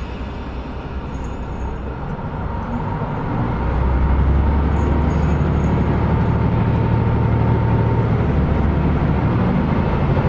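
KiHa 125 diesel railcar heard from inside the cabin, its diesel engine's drone swelling about three and a half seconds in as power is applied, then running steadily under load with low engine tones over the rail noise.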